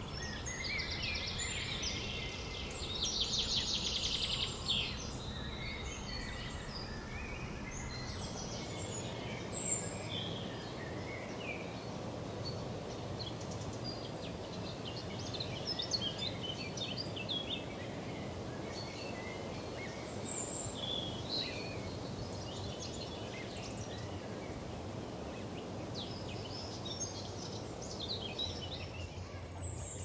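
Birds calling and chirping over a steady low background noise, with a fast high trill loudest in the first few seconds and scattered short calls after it.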